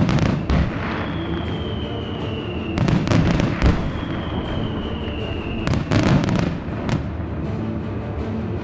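Aerial fireworks shells bursting in three volleys of several bangs each, about three seconds apart, over the show's music, in which a high falling tone recurs between volleys.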